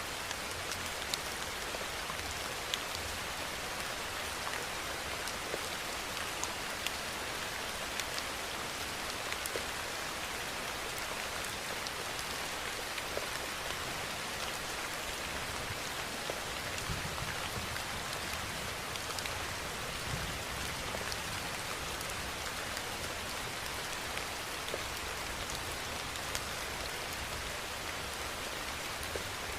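Steady rainfall: an even hiss of rain with many scattered sharp drop ticks.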